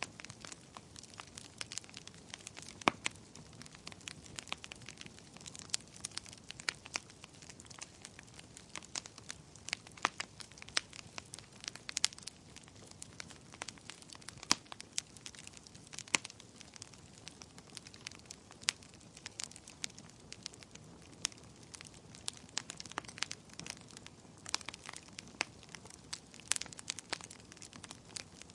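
Bonfire crackling: irregular sharp pops and snaps over a soft, steady hiss.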